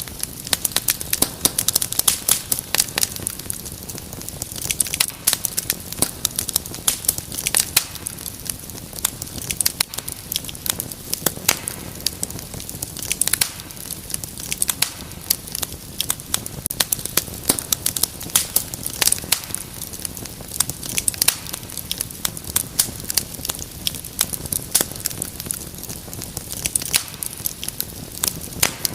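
Wood fire crackling in a fireplace: constant irregular snaps and pops over a low steady hiss of burning.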